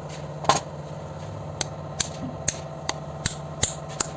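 A hammer tapping a part into place: one harder blow about half a second in, then a run of lighter, even taps about two to three a second. A steady low hum runs underneath.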